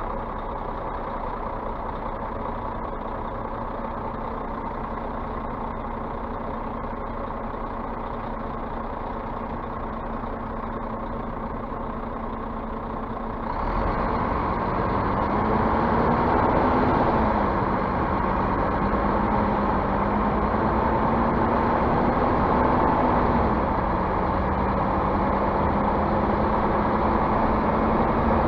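Scania bus's diesel engine running steadily; about halfway through it gets louder, with a pitch that rises and falls as the engine speed changes.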